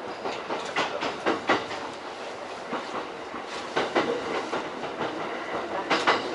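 E231-series electric commuter train running, its wheels clicking over rail joints, heard from inside the leading car. The clicks come in quick pairs and triplets every couple of seconds over a steady running rumble.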